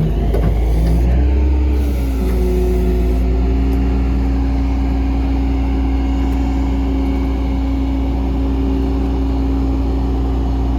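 A vehicle engine running at a steady speed: a low rumble with a steady hum, its pitch shifting slightly and then holding about two seconds in.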